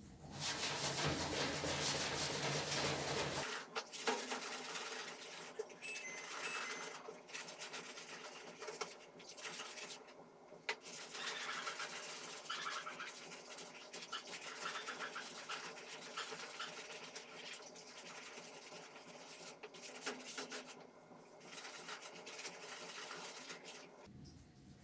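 A steady rushing noise for the first three and a half seconds, then irregular scraping and rubbing, as of hand work on metal or plastic parts, with scattered light clicks.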